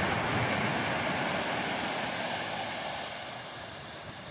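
Ocean surf washing on the beach, a steady hiss with wind rumbling on the microphone, easing off over the last second or so.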